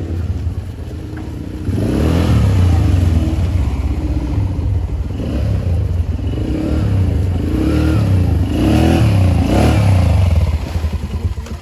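ATV engine running, revving up and down several times and getting louder about two seconds in.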